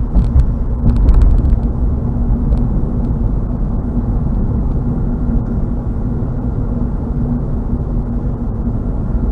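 Car driving at road speed, heard from inside the cabin: a steady, even rumble of tyres and engine with a faint constant hum.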